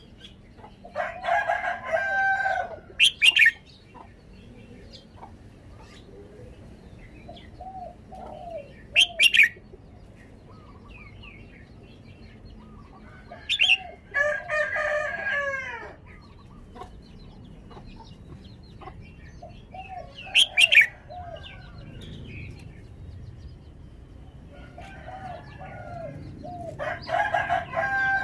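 Red-whiskered bulbul calling in short, sharp whistled notes spaced several seconds apart. A rooster crows three times in between, each crow lasting about two seconds.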